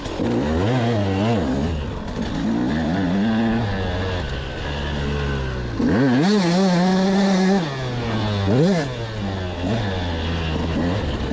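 2004 KTM 200SX two-stroke motocross engine being ridden hard, revving up and falling back again and again on the throttle. About six seconds in it climbs and holds a high steady rev for about a second and a half, then drops off, with one more quick blip of throttle after that.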